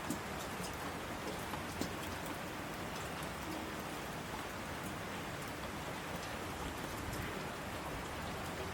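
Steady rain falling: a continuous hiss of rain on a surface, with scattered single drops ticking out above it.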